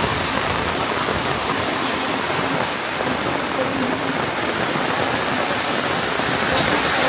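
Heavy rain falling: a steady, even downpour hiss.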